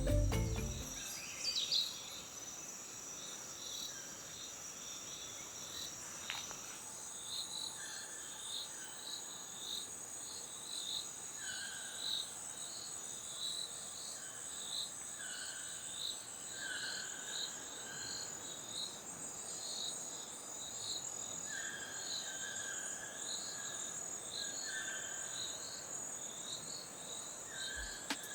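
Rainforest insect chorus: a steady high-pitched trill, with short chirping calls repeating about once a second over it.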